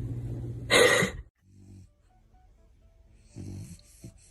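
A dog gives one short, loud, noisy snort about a second in, over a steady low hum. The hum cuts off right after, and only faint soft sounds follow.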